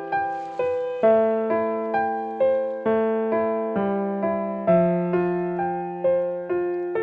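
Background piano music: a slow, gentle melody of single struck notes about twice a second over sustained low chords.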